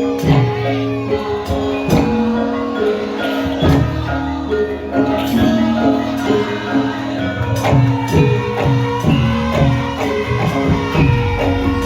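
Javanese gamelan music accompanying a lengger dance: metal mallet instruments holding steady notes over a hand drum played in quick strokes that bend down in pitch.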